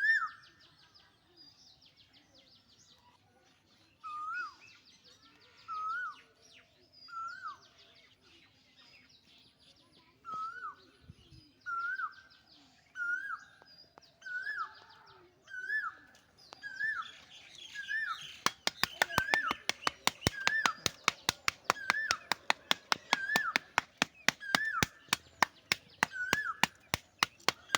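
Bird calling over and over, the same short rising-and-falling whistle about once a second, with higher chirps above it. About two-thirds of the way through, a fast run of sharp clicks joins in.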